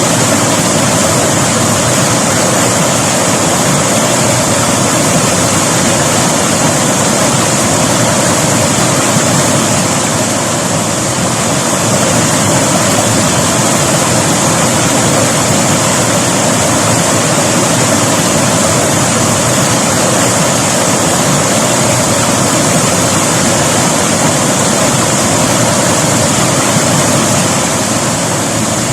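River water rushing steadily, a loud, unbroken wash of noise.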